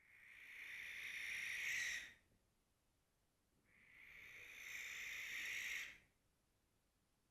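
Male barn owl giving two long screeches, each about two seconds, swelling in loudness and then cutting off sharply; a territorial call.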